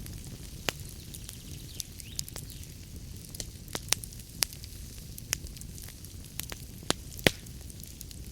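Wood fire crackling in a fireplace: irregular sharp pops and snaps, one strongest near the end, over a steady low rumble.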